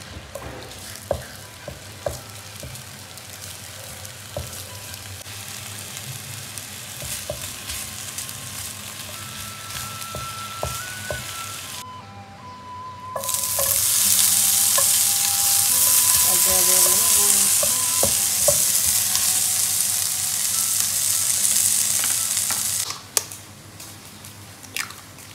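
Crab stick strips sizzling in oil in a nonstick frying pan, with small clicks and scrapes as a wooden spatula turns them. After a short break about twelve seconds in, the oiled pan sizzles much louder and hissier, then stops abruptly about 23 seconds in. A few light knocks near the end come from an egg being cracked on a bowl.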